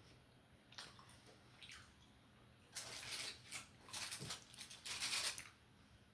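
Close-miked wet mouth sounds of eating and drinking: a couple of faint clicks, then three short noisy bursts in the second half.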